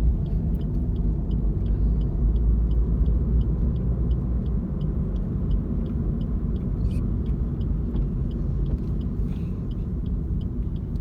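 Inside a moving car: a steady low road and engine rumble, with a light, regular ticking about three times a second.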